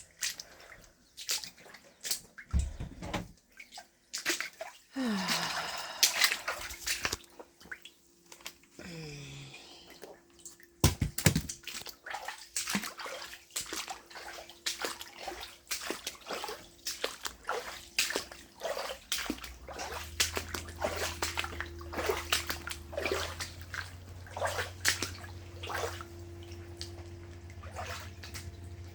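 Footsteps wading through ankle-deep floodwater on a basement floor: irregular sloshes and splashes. A steady low hum joins about two-thirds of the way through.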